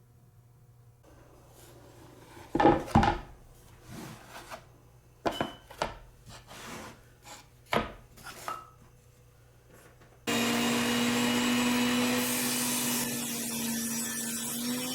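Wooden pieces knocked and handled, with a few sharp knocks and clatters. About two-thirds of the way through, a power saw starts running abruptly with a steady hum and a bright hiss.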